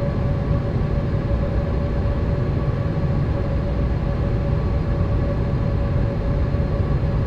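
Steady roar inside a Boeing 787 airliner cabin in flight: low engine and airflow drone with a constant whine on top, unchanging throughout.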